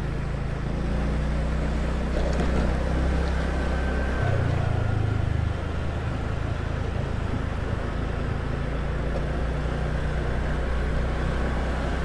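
Small motor scooter's engine running as it is ridden along the road, with a steady low engine note over road and air noise; the note changes briefly about four seconds in, then settles back.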